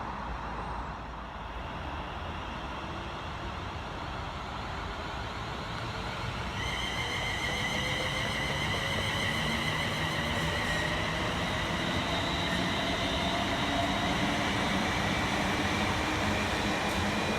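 A train approaching on the main line, its rumble growing steadily louder. About six and a half seconds in, a high-pitched whine of several steady tones joins it, along with a lower tone that slowly rises in pitch.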